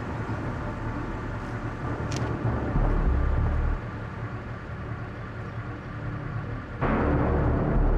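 Car engine running with a low rumble, swelling louder about three seconds in and again, with more hiss, near the end.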